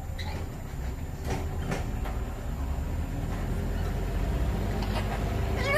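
Steady low rumble with a few soft clicks, and at the very end a short rising squawk from a pet parrot.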